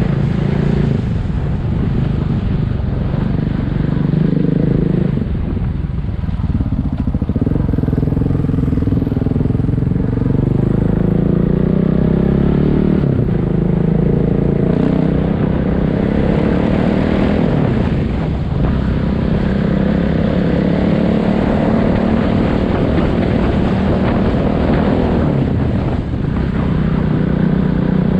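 Single-cylinder dual-sport motorcycle engine running while riding, its pitch rising and falling with throttle and speed, over a steady rush of wind and road noise.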